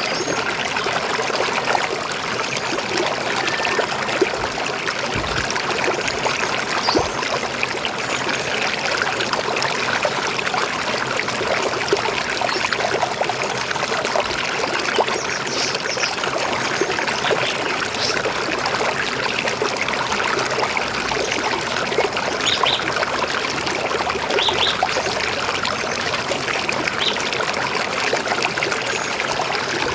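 River water flowing steadily over rocks, a continuous trickling rush.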